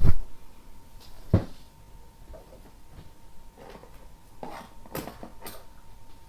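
Two knocks, one right at the start and one about a second and a half in, then a quick run of lighter clicks and taps near the end: objects being handled and set down close to the microphone.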